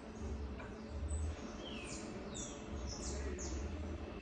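Small birds chirping: a run of quick, falling whistled notes, thickest from about a second and a half in, over a faint low rumble.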